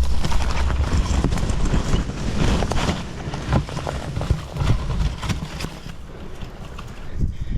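Wind buffeting the microphone with a heavy rumble, over a run of quick footsteps crunching through dry ground cover.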